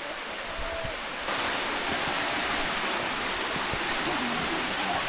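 Mountain stream water rushing in a steady hiss, growing louder a little over a second in.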